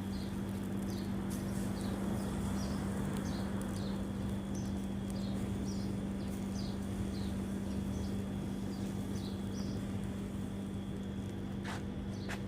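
A steady low machine hum over an even rushing noise, with faint short high chirps or crackles about twice a second.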